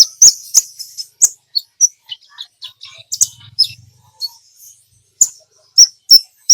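Kolibri ninja (sunbird) singing a rapid string of sharp, high chirps and clicking notes in quick, irregular succession. This is the bird's full, chatty song used as a lure track to set other birds singing.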